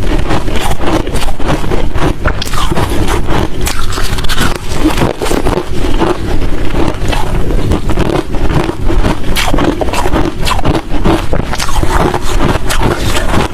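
Close-miked chewing of hard crushed ice and shaved-ice chunks: a dense, continuous run of loud, irregular crunches.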